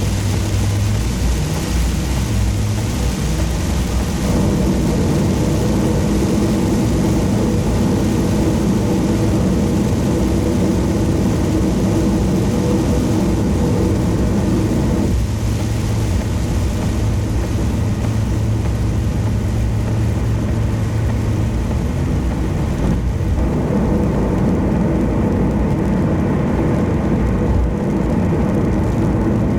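Car cruising at expressway speed: a steady hum from the engine and drivetrain under continuous tyre and road noise, the hum shifting slightly in pitch a few times.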